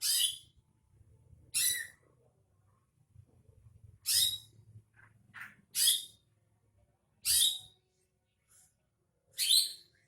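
Greater green leafbird (cucak ijo) giving six short, sharp, high-pitched calls a second or two apart, with a few fainter notes between, the kind of lure call played to get another cucak ijo to sing.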